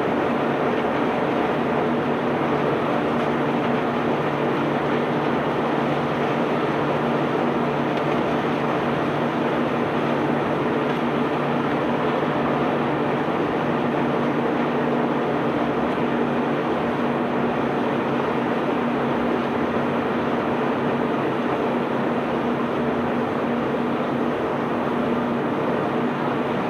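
Self-unloading barge's machinery running steadily during discharge: a constant low hum over an even rushing noise, with no separate knocks or changes.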